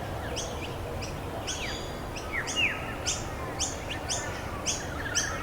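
Songbirds calling: one repeats a short, sharp high call about twice a second, while another gives a few falling whistles near the middle, over a steady low background noise.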